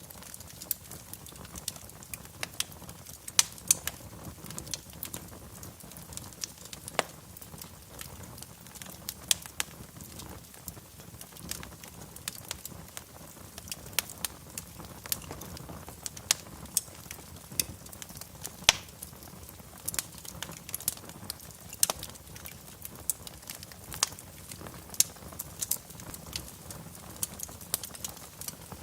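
Wood fire burning in a fireplace, crackling with irregular sharp pops over a steady low hiss.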